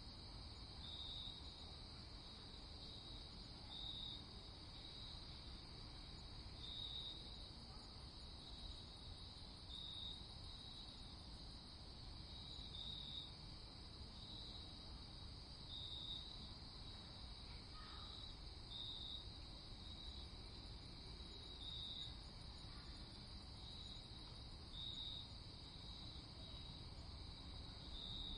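Crickets chirping in a steady high trill, with a louder chirp about every three seconds, over a faint low rumble.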